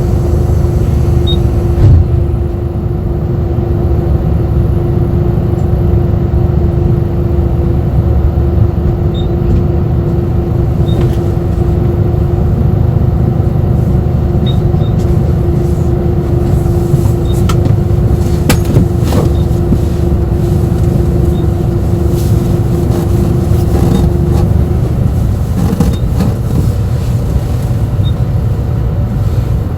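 Inside a bus on the move: a steady low road-and-engine rumble with a constant hum that stops about three-quarters of the way through, and scattered rattles and clicks from the cabin in the middle stretch.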